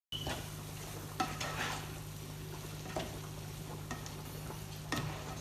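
A spoon stirring a meat-free mince sauce in a pan. It scrapes and knocks against the pan a few times over a low sizzle, with a steady low hum underneath.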